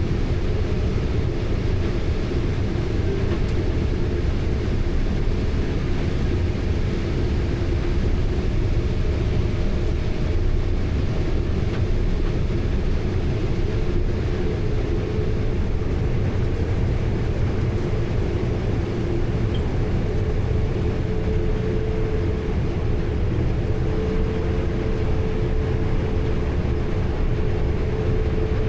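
Heavy farm harvest machinery running steadily: a deep engine drone with a thin, steady whine that becomes clearer in the second half.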